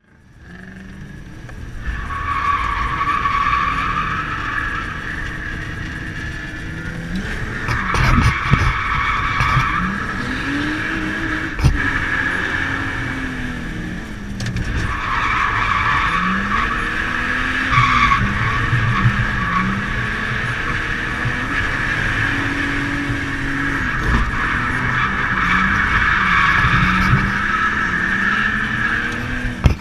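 BMW E36 325i's stock non-VANOS M50 straight-six heard from inside the cabin, revving up and falling again and again as the car is driven hard through corners. The tyres squeal in long stretches, most of all through the second half, and there are a couple of sharp knocks.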